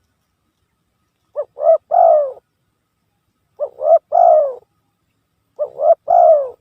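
Spotted dove cooing, played as a lure call: three calls about two seconds apart, each two short coos followed by a longer one that falls in pitch.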